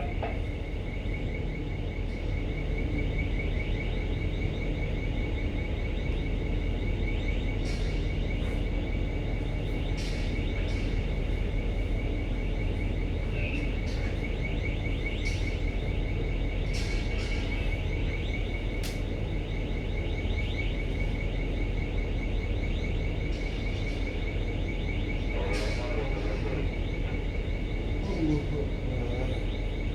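Steady low hum of the ship's machinery, with a faint high pulsing tone running through it and a few brief high ticks. Faint voices come in near the end.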